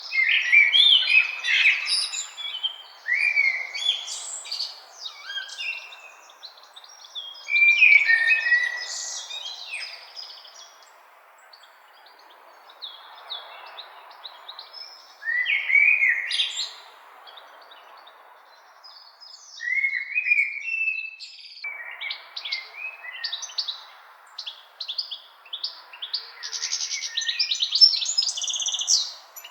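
Songbirds singing in woodland: phrases of quick chirps and gliding whistled notes come in bursts every few seconds, over a faint steady background hiss.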